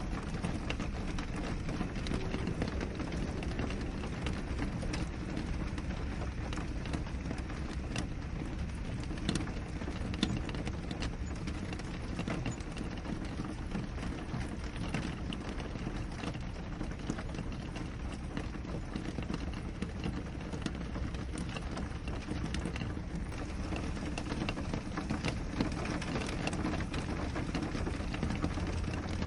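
Steady rain on a window: an even hiss of rainfall with many small, sharp drop hits scattered through it.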